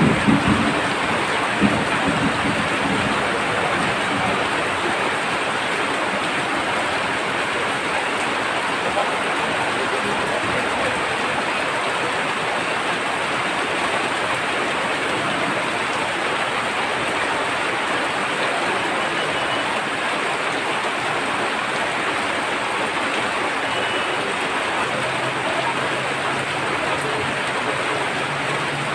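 Steady rain falling. A low motor hum comes in near the end.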